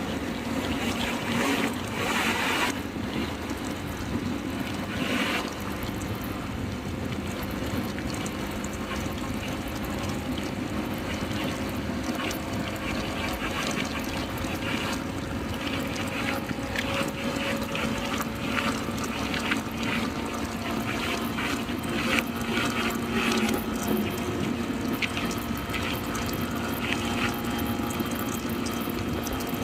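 Motorcycle riding at steady speed on a highway: a continuous engine hum that drifts slowly in pitch, under wind and road noise.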